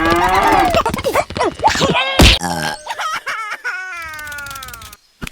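Rooster crowing repeatedly in long calls that rise and fall in pitch, with a sharp knock about two seconds in.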